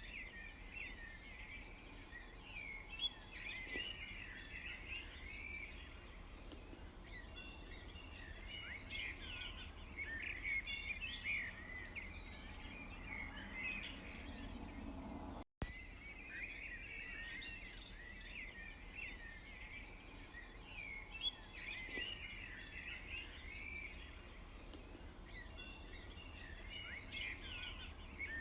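A dense chorus of small birds chirping and twittering over a low steady rumble. The sound cuts out for an instant about fifteen seconds in, and the same stretch of birdsong starts over: a looped recording.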